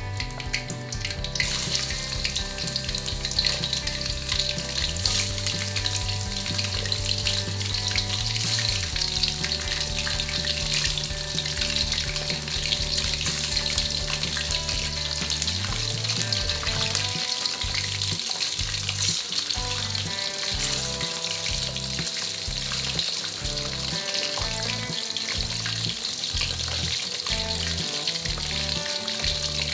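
Chicken pieces deep-frying in hot oil in an aluminium wok: a loud, continuous sizzle that starts about a second and a half in, as the last pieces go into the oil.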